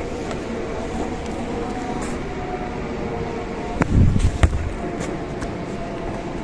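Toy RC car running over the ground, its motor giving a faint steady whine under outdoor noise, with a loud thump and two sharp knocks about four seconds in.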